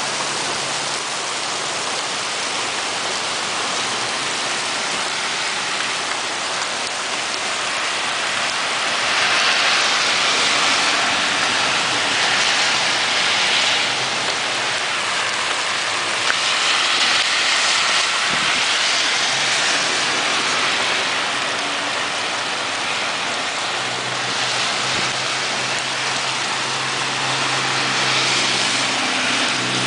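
Torrential rain mixed with hail pouring down, a steady loud hiss of drops hitting the street. Several times it swells for a few seconds as cars pass through the water on the wet street.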